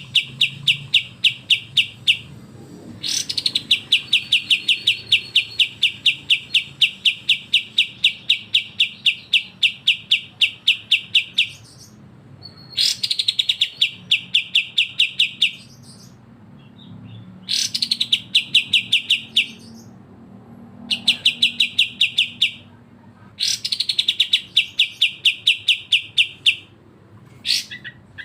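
A songbird repeating one high chattering note in fast, long runs of several seconds each, every run opening with a sharp rising note. This is the 'besetan' style of song used in masteran training recordings for kapas tembak and cucak jenggot.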